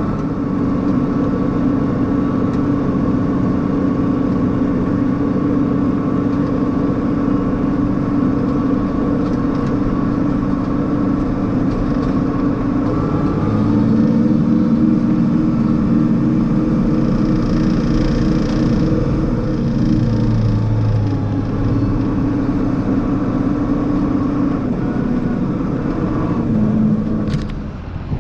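Diesel engine of large farm harvest machinery running steadily, with its pitch shifting about halfway through. The sound drops away suddenly near the end.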